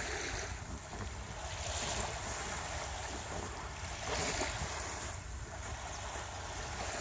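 Sea surf washing on the shore in repeated swells, over a low rumble of wind on the microphone.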